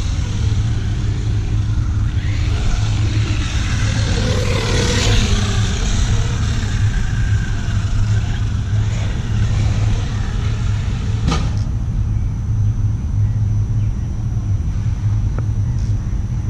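Remo Hobby Dinosaurs Master 5 R/C monster truck running: motor, drivetrain and tyres working over the ground under a constant low rumble. A sharp knock comes about eleven seconds in, after which the sound is duller, with a thin steady high whine.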